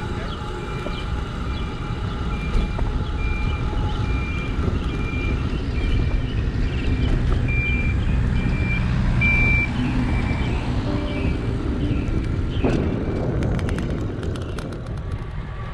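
A high electronic beeper repeating a little under twice a second over a steady rumble of wind and riding noise. The beeping fades out near the end, followed by a quick run of clicks.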